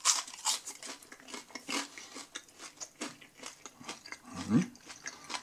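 Someone chewing the crispy fried batter of a Burger King X-tra onion ring up close, with irregular crunches. A short hum about four and a half seconds in.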